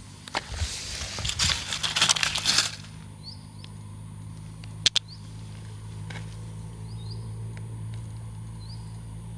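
Crunching of footsteps or handling over loose stones and gravel for about two seconds, then a single sharp click. A low steady hum and a few faint short chirps run underneath.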